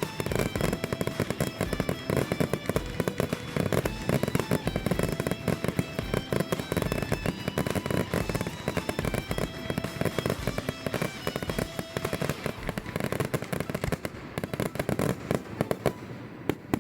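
Fireworks barrage: many shells bursting and crackling in rapid, dense succession, with background music playing under the bangs.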